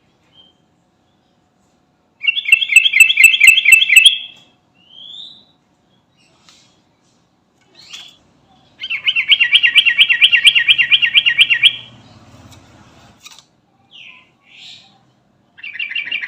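Sooty-headed bulbul (trucukan) singing: a run of fast repeated notes lasting about two seconds, then a longer run of about three seconds, with short single calls between them. A third run begins near the end.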